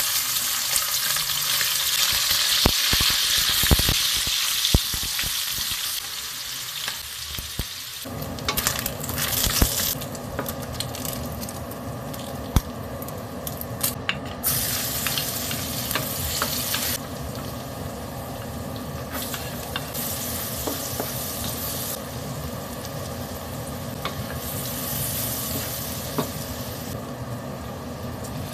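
Diced raw meat sizzling loudly in hot oil in a steel wok, with the sizzle easing and flaring again as more ingredients go in. It is stirred with a wooden spatula that scrapes and taps against the pan. A steady low hum joins about eight seconds in.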